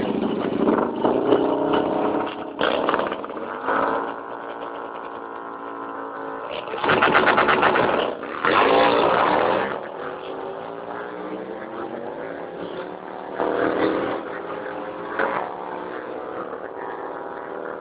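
Drag-racing motorcycle engines running and revving, their pitch rising and falling, with two loud bursts of hard revving about seven and nine seconds in.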